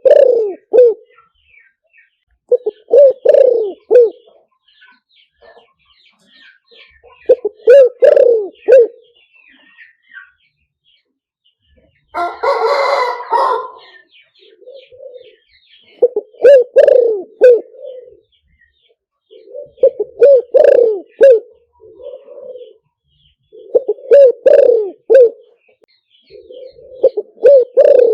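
Spotted dove cooing: a recorded decoy call, a short phrase of several low coos repeated every few seconds. A harsher, broader call of about two seconds comes about twelve seconds in.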